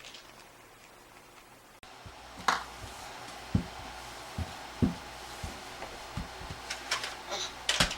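Scattered light knocks, taps and clicks, with a few low thumps, in a small room; the background changes abruptly about two seconds in.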